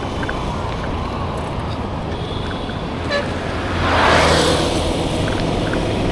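Road traffic: a steady low engine rumble, with a short horn toot a little over two seconds in and a vehicle rushing past close by about four seconds in.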